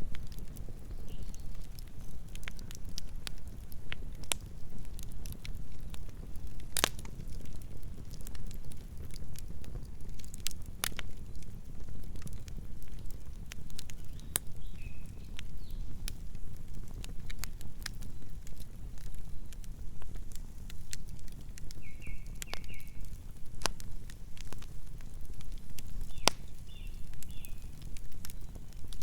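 Burning firewood logs crackling over a low steady rumble, with irregular sharp pops, the loudest about seven seconds in. A few short, faint, high squeaks come later.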